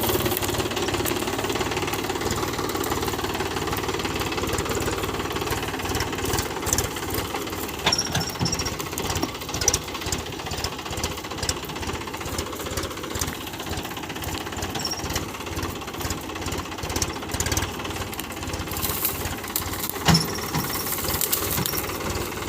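Tractor diesel engine running with a rapid knocking clatter, with a few sharp clunks about eight, ten and twenty seconds in.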